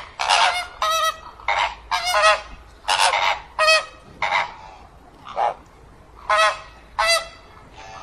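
A flock of flamingos calling: a string of short, goose-like honks, about a dozen or more in irregular succession, some overlapping.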